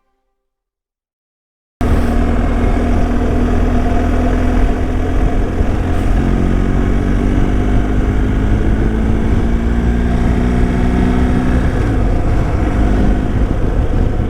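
Motorcycle engine running under way with a loud, steady rush of road and wind noise. It cuts in suddenly about two seconds in. The engine note climbs slowly through the middle and drops near the end.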